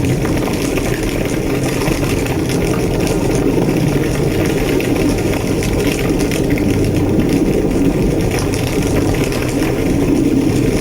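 A large blazing fire, given as a burning building, roaring steadily with a dense low rumble and irregular crackling throughout.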